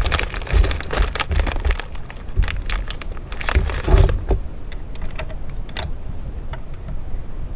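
Hands handling a sewing machine and its thread: irregular clicks, light knocks and crinkly rustling, with no motor running.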